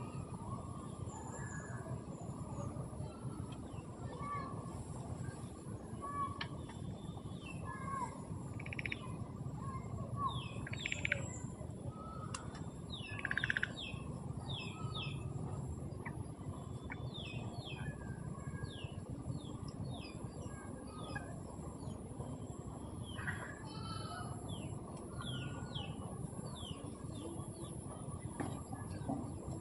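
Small birds chirping: many short, downward-sliding calls scattered throughout, one louder call about halfway through and a quick trill later on, over a steady low background noise.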